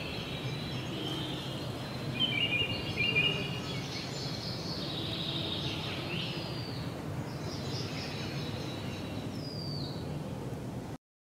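Birds calling over a steady outdoor background hiss, with several short whistled calls that slide down in pitch and a brief burst of chirps about two seconds in. The sound cuts off abruptly near the end.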